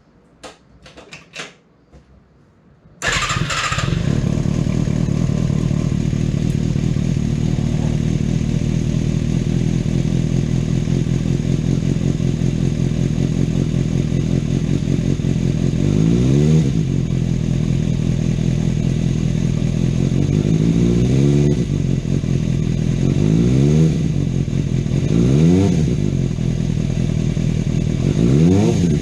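Suzuki GSX250S's 250 cc inline-four engine catching about three seconds in after a few light clicks, then idling steadily, with five short throttle blips that rise and fall in pitch in the second half.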